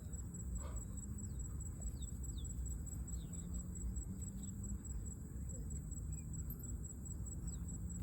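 Faint outdoor ambience: insects trilling steadily at a high pitch over a low rumble, with a few short, high falling chirps.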